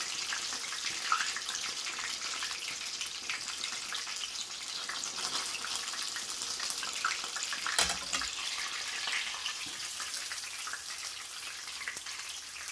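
Breaded chicken fillets shallow-frying in sunflower oil in a frying pan: a steady sizzle with fine crackling, and a single knock about eight seconds in.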